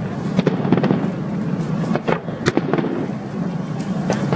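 Aerial fireworks display: a string of sharp bangs and cracks at irregular intervals, roughly two a second, over a continuous rumbling din.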